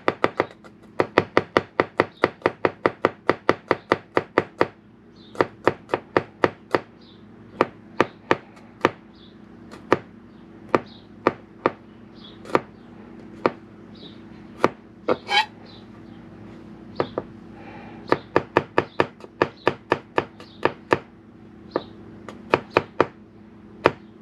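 Kitchen knife cutting garlic on a cutting board. It starts with a quick run of sharp taps, about five a second, then goes on in slower, uneven cuts. A steady low hum runs underneath.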